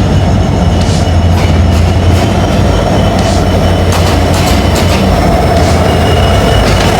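Passenger train running at speed, heard from inside a carriage: a steady heavy rumble of wheels on track with scattered irregular clacks from the rails. A faint high wheel squeal grows near the end.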